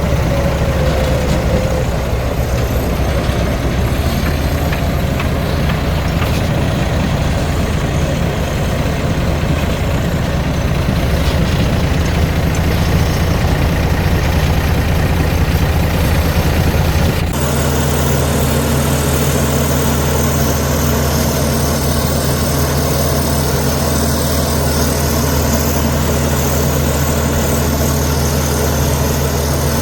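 Heavy diesel engine of earthmoving machinery running steadily, with an abrupt change in its sound about seventeen seconds in.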